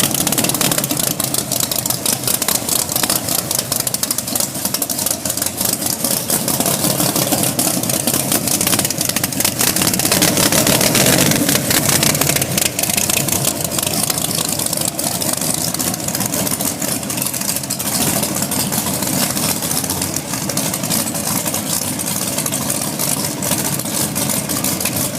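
A naturally aspirated 632 cubic inch big-block Chevrolet V8 racing engine in a drag car, running loud with rapid, dense firing pulses. It swells louder briefly around ten seconds in.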